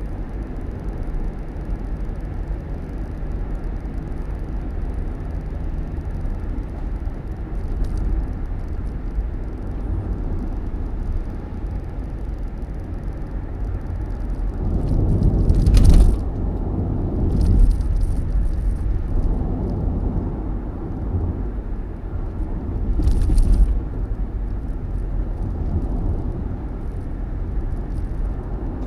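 Steady low rumble of a road vehicle, swelling louder with a hiss about halfway through and again a few seconds later.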